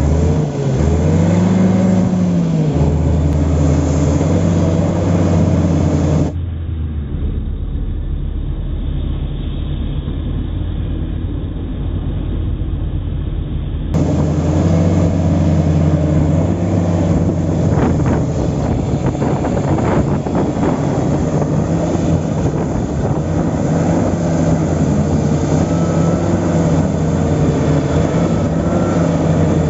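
Heavy diesel earthmoving machinery, a mired Komatsu D65P bulldozer among it, running under load with the engine note rising and falling. A stretch in the middle sounds duller and muffled.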